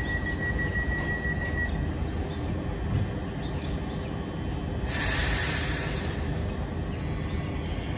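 Transilien electric commuter train standing at the platform, running with a steady low hum and a thin high whistle that stops a couple of seconds in. About five seconds in, a sudden loud hiss of compressed air lasts about a second and a half, as the brakes release just before the train pulls away.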